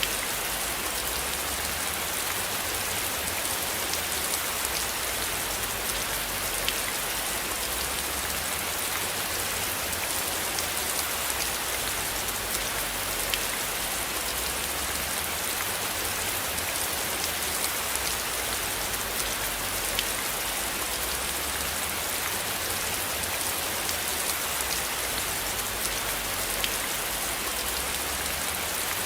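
Steady rain falling on a surface: a dense, even hiss of drops with many tiny sharp ticks, over a faint low rumble.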